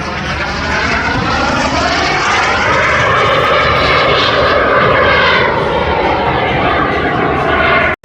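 Airplane engine flying past, swelling in loudness with a sweep that rises and then falls in pitch, then cutting off suddenly near the end.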